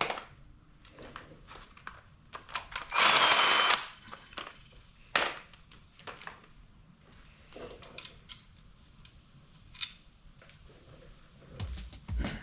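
Workshop tool sounds: a power tool runs in one short burst of under a second, about three seconds in, amid scattered clicks and knocks of hand tools and parts being handled.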